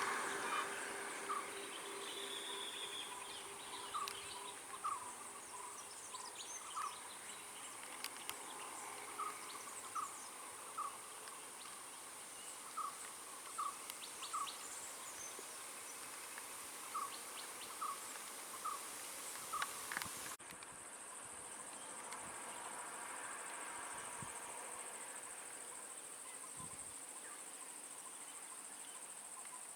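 Outdoor ambience of insects droning steadily at a high pitch, with a bird repeating short single call notes roughly once a second for the first two-thirds; the background changes abruptly about twenty seconds in.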